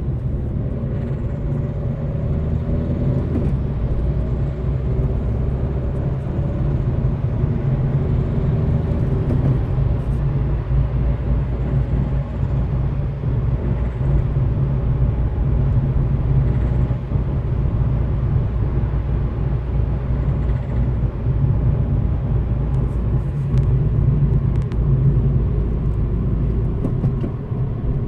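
Diesel engine of a 2013 Citroën C3 Picasso running with the car under way, a steady low rumble whose pitch shifts over the first several seconds. The owner reports a ticking, gurgling noise with loss of power under throttle and suspects the injection system.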